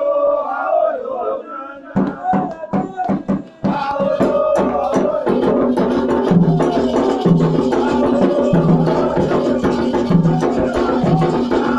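Candomblé ritual music: a chanted vocal line, then a few separate drum strikes, and at about four seconds atabaque hand drums and other percussion start a steady, dense rhythm with voices singing over it.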